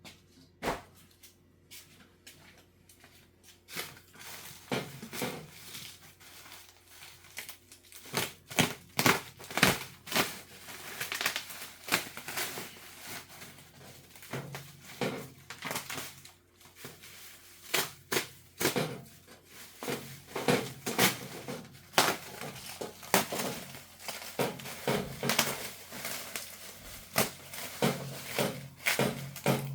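Packaging being unwrapped by hand: crinkling, crumpling and tearing in irregular bursts, sparse at first and busy from about four seconds in.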